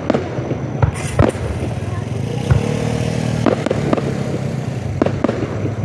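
Scattered firework bangs, about eight sharp cracks, over a steady din of crowd voices and vehicle engines.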